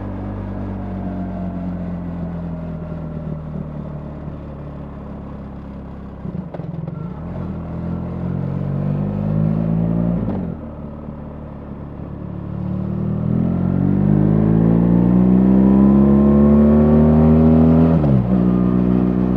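BMW R 1300 GS boxer-twin engine under way: revs fall as the bike slows, rise briefly and drop sharply at a gear change about ten seconds in, then climb steadily under acceleration to the loudest point before dropping at another shift near the end.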